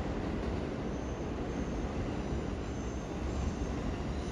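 JR West 321 series electric train pulling away over curved track: a steady low rumble of wheels and running gear, with a faint high squeal coming and going.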